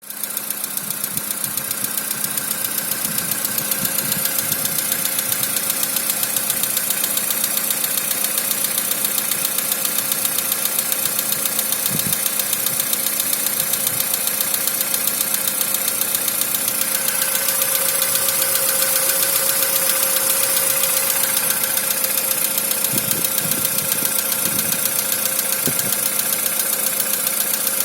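Volkswagen Polo engine running steadily, with a rapid, even ticking over a steady whine. This is the unexplained extraneous noise whose cause the owner is asking about.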